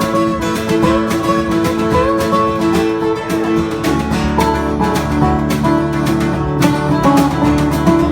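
Acoustic guitars playing an instrumental break with no singing, with a lead line that slides between notes over steady picked accompaniment.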